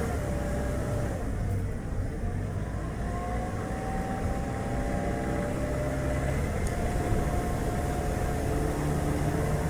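Chevrolet Spark light car on the move: its engine hum dips slightly in pitch just after the start, then climbs slowly through the middle, over steady road and wind noise.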